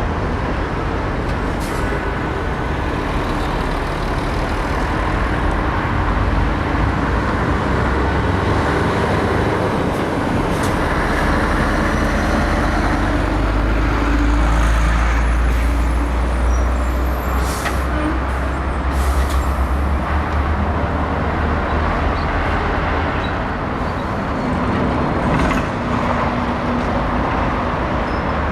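Heavy diesel trucks running and passing close by, a deep engine rumble that swells loudest through the middle and then eases. A couple of short hisses are heard about two-thirds of the way through.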